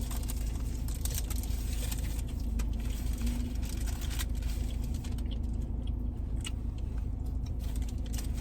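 Steady low rumble of a car's interior, with scattered small clicks and rustles of food and wrappers being handled while eating.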